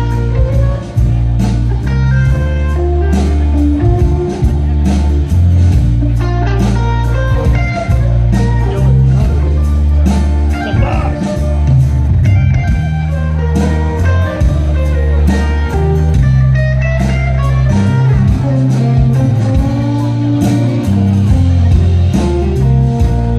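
Live band music with guitar, bass and drums playing an instrumental passage with no singing.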